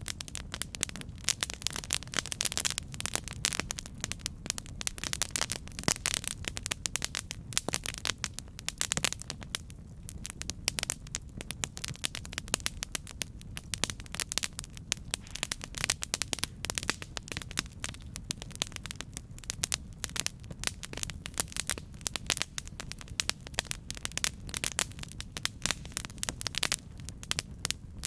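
Campfire burning: dense, irregular crackling and popping over a steady low rumble of the flames.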